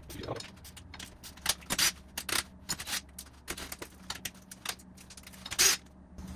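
Hand tools clicking and clinking on metal parts in a string of irregular sharp clicks, with a louder, longer scrape about five and a half seconds in.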